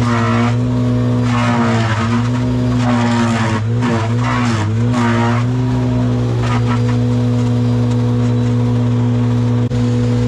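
An engine running steadily at one speed. Around the middle its pitch dips and wavers briefly, as if under load, and several short noisy bursts come and go over it in the first half.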